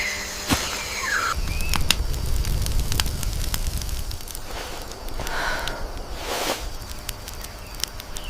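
Wood fire crackling, with scattered sharp pops over a low rumble of flames. A few bird chirps come at the start, before the fire sound takes over about a second in.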